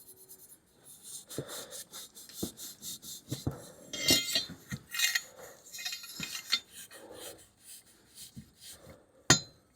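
Abrasive scuff pad scrubbing a stainless steel Honda Grom muffler coated in Brasso polish: irregular rubbing strokes with light metallic clinks, and a sharper click near the end.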